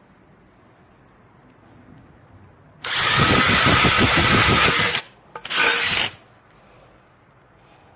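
DeWalt 20V MAX brushless hammer drill running in two bursts: one of about two seconds, then a short one of about half a second.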